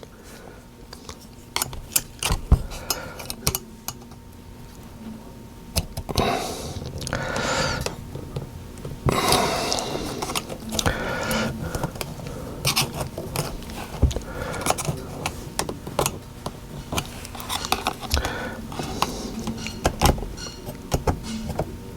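Hands working a car touch-screen assembly's plastic bezel and its retaining tabs: repeated light clicks and taps of plastic and metal parts, with a few longer scrapes in the middle as the tabs are pushed and pried.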